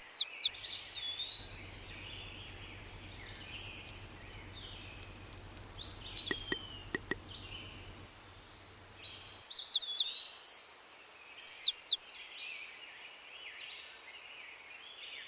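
Birds chirping, with loud pairs of sharp falling chirps near the start and twice more after the middle. For the first nine seconds or so a steady, high, pulsing insect-like trill runs underneath.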